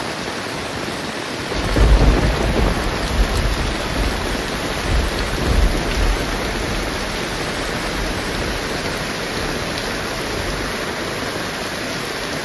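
Heavy rain pouring steadily, with a deep rumble of thunder swelling about a second and a half in and fading out after a few seconds.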